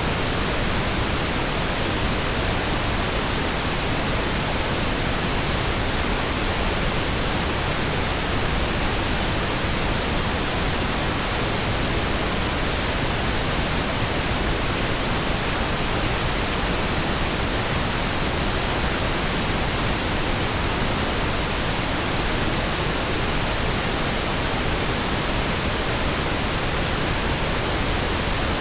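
Synthetic pink noise: a smooth, steady hiss that never changes.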